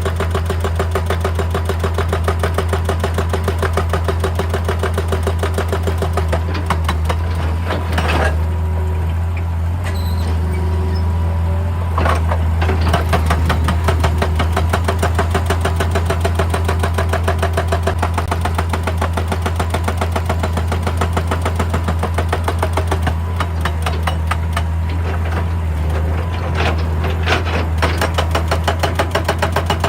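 Hitachi EX200 excavator's diesel engine running steadily with a fast, even pulsing, with a few louder knocks about eight and twelve seconds in and a cluster near the end.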